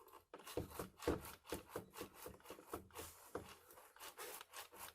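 Hands handling the partly disassembled Craftsman belt sander after oiling its bearings: a quick, irregular series of small clicks and rubbing sounds.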